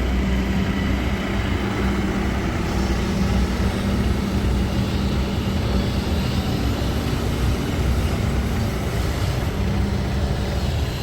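Kobelco SK200-10 excavator's diesel engine running steadily, with a brief dip in its hum about nine seconds in.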